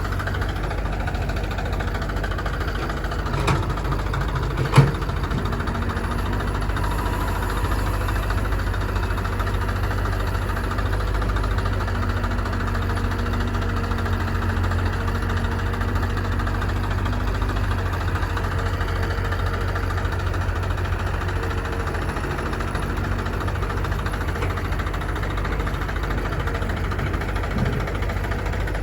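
Heavy diesel engine running steadily at idle, with two sharp knocks around four to five seconds in, the second the louder.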